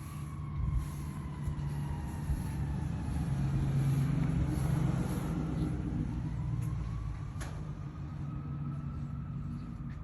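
Yamaha Tracer 9 GT's three-cylinder engine idling steadily just after start-up, getting a little louder for a few seconds in the middle before settling back.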